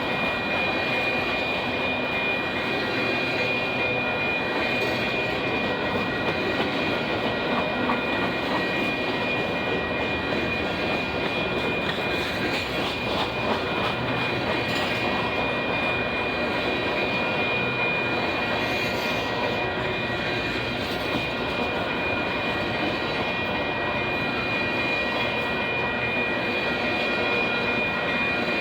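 Union Pacific grain train rolling steadily past: wheels running over the rails of a long string of freight cars, with a steady high-pitched ring over the rumble.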